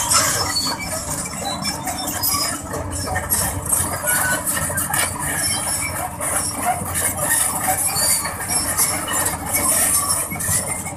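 Steel crawler tracks of a Sany SR150C rotary drilling rig squealing and clinking without a break as the rig travels, many short high squeaks over a steady low engine rumble.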